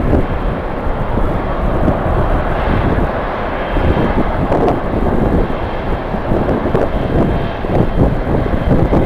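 Jet airliner engines running, under the heavy rumble of strong wind buffeting the microphone. A faint steady high whine sits above the rumble.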